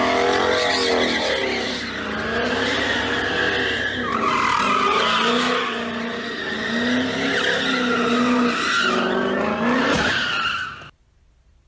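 Car tyres squealing in long wavering screeches as a car skids and slides. A short sharp knock sounds near the end, and the sound then cuts off suddenly.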